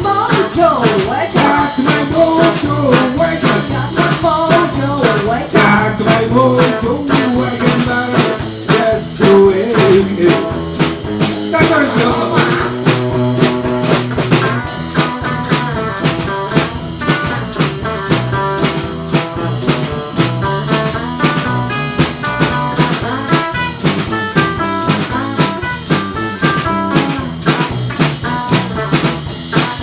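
Live blues band playing an instrumental stretch over a steady drum-kit beat, with a lead line of sliding, bent notes in the first few seconds and steadier repeated notes after.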